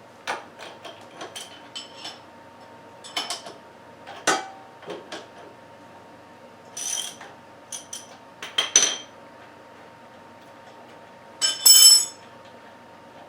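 Metal hand tools, such as a wrench, socket and tire spoons, clinking and clicking as they are handled: a string of separate sharp clicks, several with a short metallic ring, the loudest cluster near the end.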